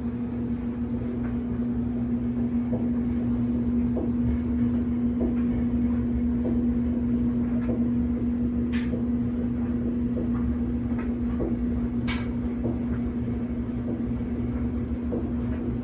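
Steady mechanical hum with a low rumble and a constant tone, with scattered faint clicks.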